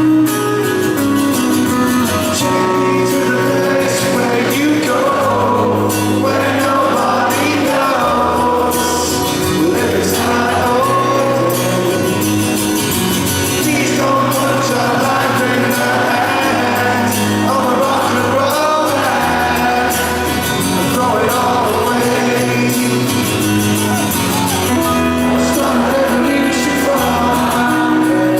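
Live rock band playing in an arena, with sung melody over steady bass and guitars, and the crowd singing along in a mass chorus.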